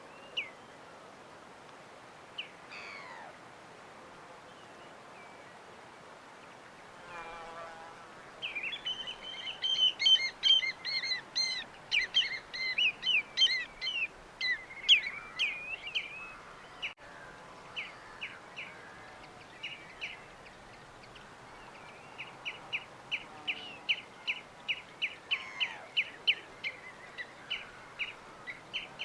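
Small birds singing: a dense burst of varied, overlapping chirps and trills in the middle, then from about two-thirds of the way in a long run of quick repeated chirps, a few a second, over a faint steady hiss.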